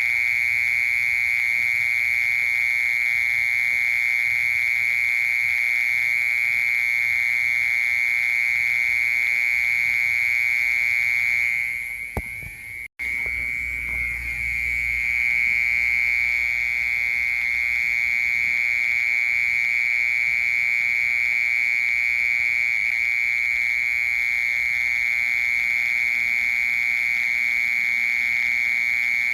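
Mole cricket singing a continuous, high, buzzing trill at one steady pitch. About twelve seconds in, the song weakens and drops out for an instant while a low rumble comes up, then it carries on unchanged.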